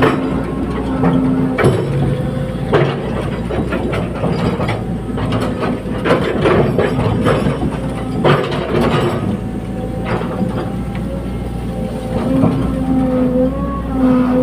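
Caterpillar 320D tracked excavator working: its diesel engine runs steadily, with repeated metallic clanks and rattles from the tracks and the digging gear. Near the end the engine labours louder.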